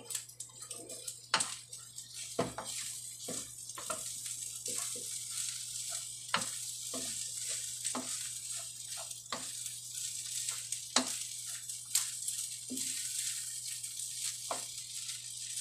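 Fried rice with egg and malunggay leaves sizzling in a frying pan while a spatula stirs it. Steady sizzle throughout, broken by irregular clicks and scrapes of the spatula against the pan.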